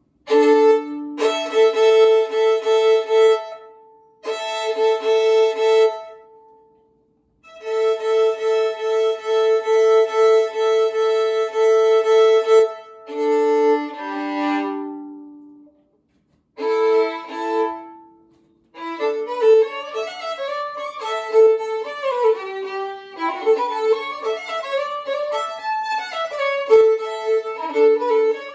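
A century-old German four-string fiddle with Dominant strings, bowed solo. It plays long held notes and short phrases with brief silent gaps between them, then goes into a continuous tune of quickly changing notes about two-thirds of the way through.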